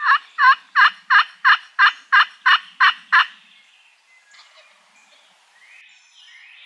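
Turkey yelping: a loud, close series of about ten evenly spaced falling yelps, roughly three a second, that stops a little over three seconds in.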